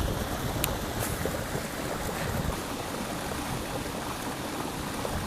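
Steady rushing noise with two faint clicks within the first second or so.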